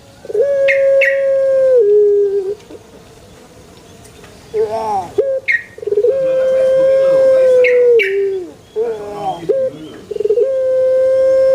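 Male Barbary dove (puter) cooing: three long, level coos about four seconds apart, each dropping in pitch at its end, with short wavering notes between them.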